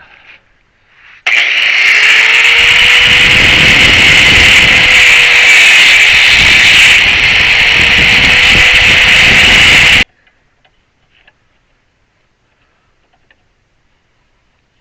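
Power grinder grinding a workpiece held in a vise: a loud, harsh grinding noise that starts suddenly about a second in and cuts off suddenly after about nine seconds. The motor's pitch dips once midway and rises again.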